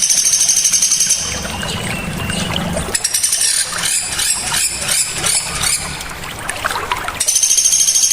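Small songbirds calling: a fast, high-pitched trill lasting about a second at the start and again near the end, with a run of rapid, repeated chirping notes in between, over a steady background of trickling water.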